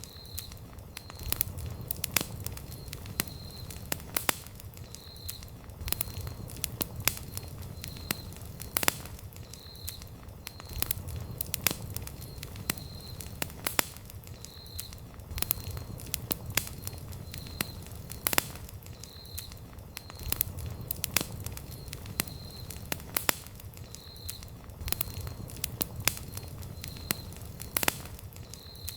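Wood campfire crackling, with frequent sharp, irregular pops over a low, steady rumble of the flames.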